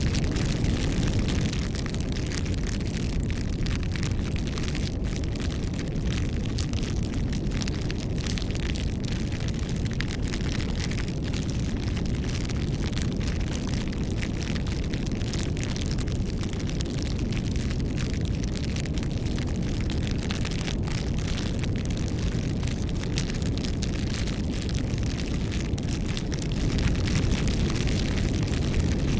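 Bonfire of burning wood: a steady low roar of flame with many small, sharp crackles and pops scattered through it, a little louder near the end.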